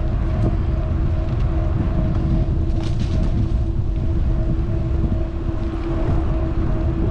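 Wind rumble on a helmet or handlebar action camera's microphone while riding an electric bike, with a steady motor hum held at one pitch throughout. A short hiss comes about three seconds in.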